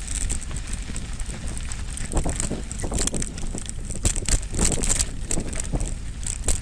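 Mountain bike riding on a dirt trail: wind buffeting the microphone as a steady low rumble, with the tyres and frame giving irregular clicks and rattles over the ground.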